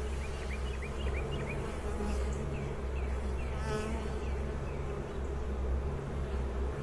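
Honey bees buzzing in large numbers around an opened hive, a steady dense hum, with short high chirps in the background during the first half.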